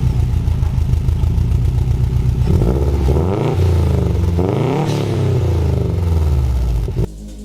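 Car engine idling steadily, then revved up and let fall back twice. It cuts off suddenly near the end.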